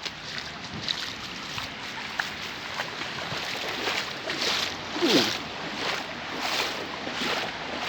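Heavy rain pouring down, a dense hiss of falling and splashing water that surges every half second or so. About five seconds in there is a brief louder sound that falls in pitch.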